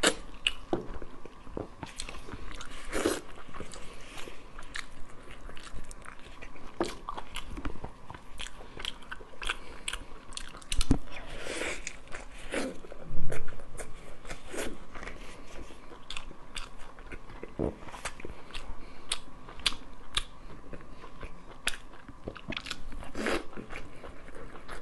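Biting and chewing of pork wrapped in fresh lettuce leaves, with crisp crunches of the lettuce at irregular intervals throughout. A couple of louder crunches come around the middle.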